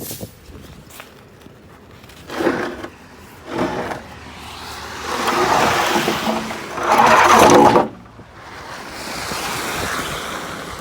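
Gusty wind blowing across the microphone in swells, two short gusts, then a long loud one lasting a few seconds, easing off into a softer gust near the end.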